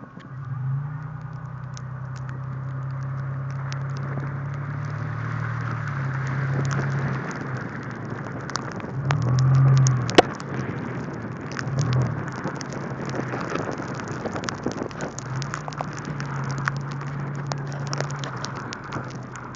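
Car driving on a wet, slushy road: a low engine hum that fades out for a while and returns, over steady tyre hiss, with many scattered sharp ticks.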